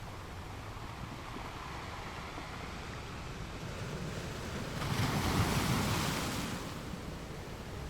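Ocean surf with a steady wash of water; about five seconds in a wave breaks and washes in louder, then falls back.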